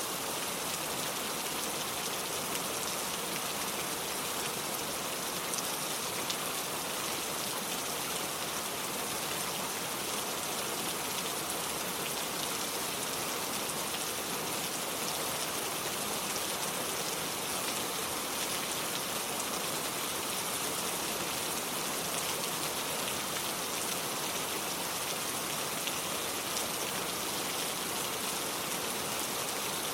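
Steady rain falling: an even, unchanging hiss of many drops.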